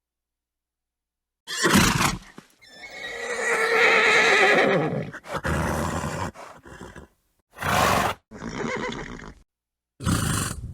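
Horse whinnying: one long quavering neigh begins about three seconds in and trails into shorter calls. It is set between short, sudden breathy blasts like snorts: one about two seconds in, one near eight seconds and one at the end.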